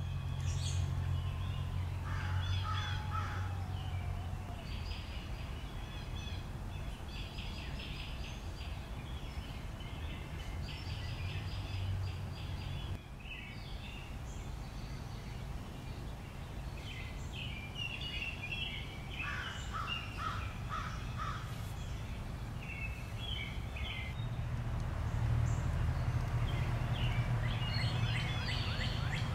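Birds calling repeatedly over a steady low hum.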